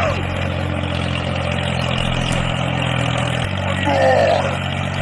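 Mini tractor engine running steadily with a low, even hum that shifts slightly about three and a half seconds in. A short sliding sound comes in near the end.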